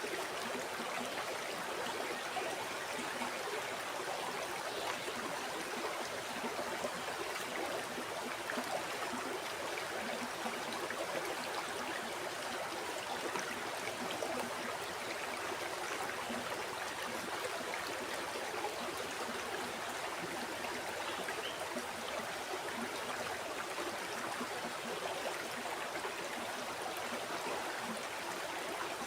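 River water flowing and burbling over stones, a steady, even rush.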